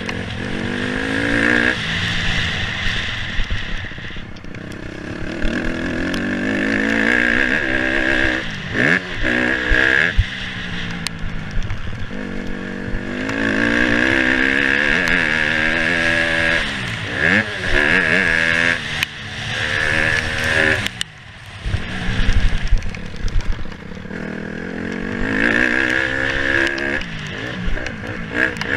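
Motocross dirt bike engine revving up and falling back over and over as the throttle is opened and shut through the gears, with a few brief drops where the throttle closes and some clattering.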